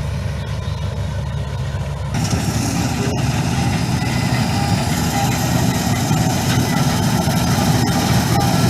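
Combine harvester running steadily with a low engine hum. About two seconds in the sound abruptly grows fuller, as a wider rushing noise joins the hum.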